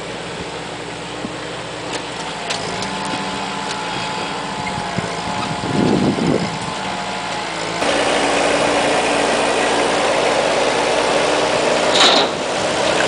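Vehicle engine running steadily, with a couple of low thuds about six seconds in. About eight seconds in, a louder rushing noise suddenly takes over.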